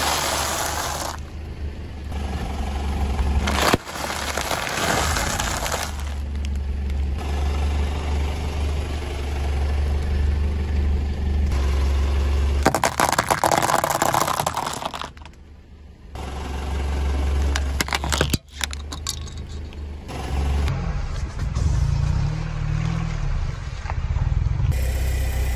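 A car tyre rolling slowly over piles of dry, brittle food over the car's steady low engine hum: tortilla chips crackling and snapping, then a row of dry rigatoni pasta cracking in a run of crunches. Near the end the tyre presses down on a mesh bag of water beads, which gives a duller squishing rumble.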